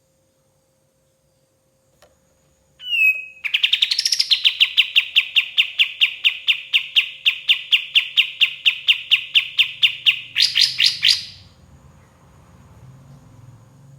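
Kapas tembak songbird singing: a short slurred note, then a long run of rapid, evenly spaced notes held at one pitch, about four or five a second, ending in a quicker, higher flourish.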